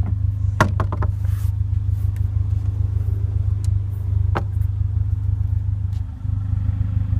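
Steady low rumble, with a few sharp clicks and knocks about half a second in, around a second in and a little past four seconds, as the trunk's floor panel and rear seats are handled.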